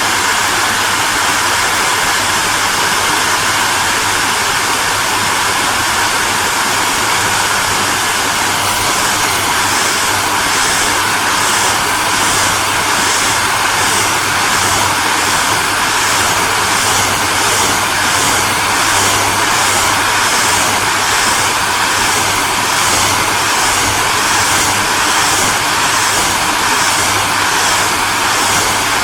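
Hairdryer running steadily: a loud, even rushing hiss of blown air over a low motor hum. About a third of the way in, a regular pulsing starts in the high hiss.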